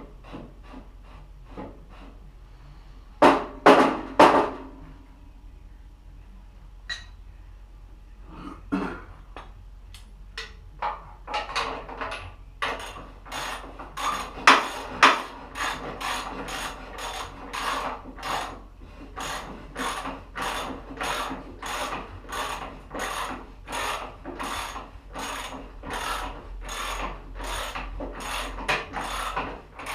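Hand tool work on the tractor's metal parts: a few loud knocks about three seconds in, then a hand tool worked in steady back-and-forth strokes, about two a second.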